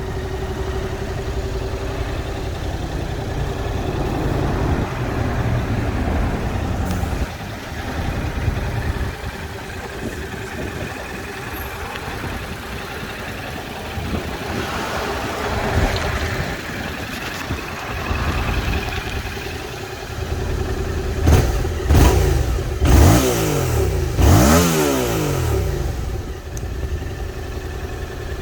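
Yamaha MT-07's 689 cc parallel-twin engine idling through its exhaust, then blipped with several quick throttle revs about three quarters of the way in, the revs shooting up and dropping straight back to idle.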